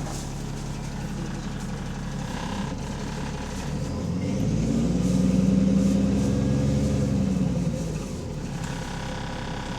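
Diesel bus engine running, then pulling away. Its note rises and grows loud from about three and a half seconds in, holds for about three seconds, and drops back near the end. The bus has an exhaust leak.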